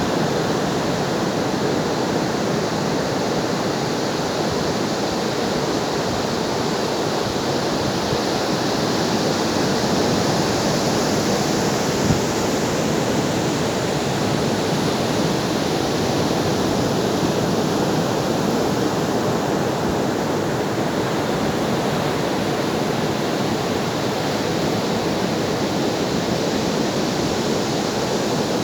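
Ocean surf: a steady, continuous wash of breaking waves, swelling slightly about ten seconds in.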